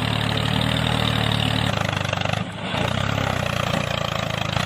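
An engine or motor running steadily at a low pitch, dipping briefly about two and a half seconds in.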